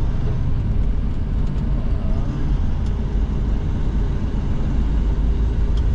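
Steady engine and road rumble heard from inside the cab of a moving vehicle.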